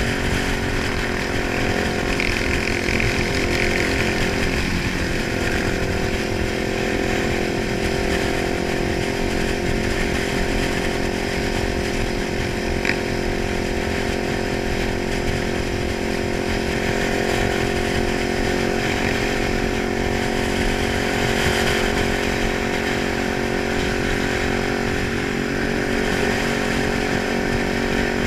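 Kawasaki 900 motorcycle engine running at a steady, unchanging speed, without revving.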